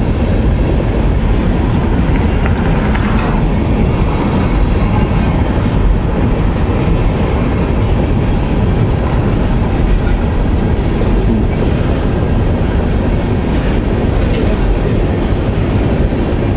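A freight train's cars rolling past close by: a steady, loud rumble and clatter of steel wheels on the rails.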